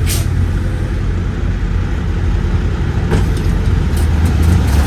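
Semi truck's diesel engine running with a steady low rumble, with a short click just after the start and another about three seconds in.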